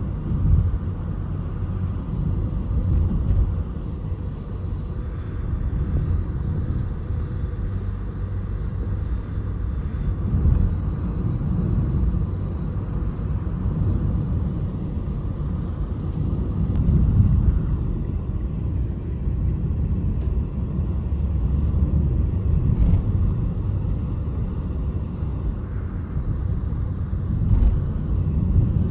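A low, steady rumble that swells and eases a little now and then.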